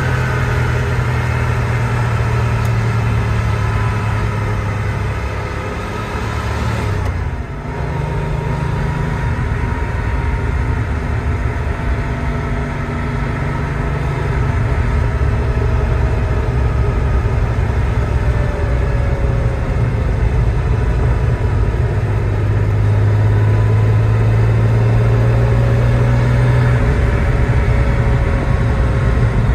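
A 1988 Porsche 911 Turbo's air-cooled turbocharged flat-six heard from inside the cabin while driving, with road and tyre noise. It drops off briefly about seven seconds in, then pulls again and grows a little louder toward the end.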